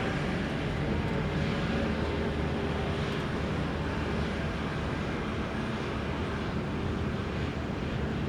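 Steady running of heavy logging machinery: an unbroken engine drone with a low rumble under a noisy hiss, holding the same level throughout.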